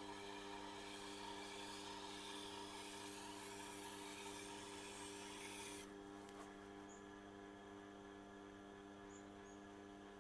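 Tormek knife sharpener running with a steady motor hum while a knife edge rubs on the turning wheel. The rubbing stops suddenly about six seconds in, leaving only the motor hum.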